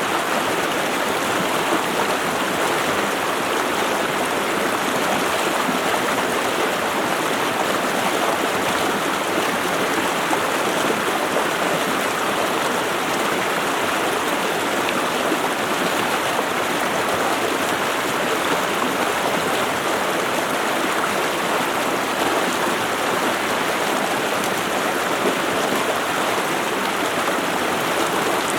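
Stream water running steadily: an even, unbroken rushing.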